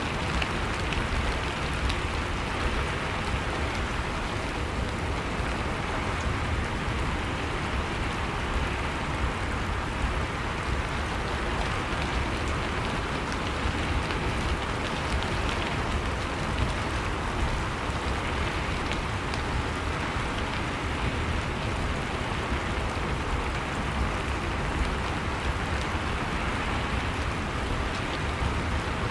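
Steady rain falling, with scattered sharper ticks of single drops hitting a surface.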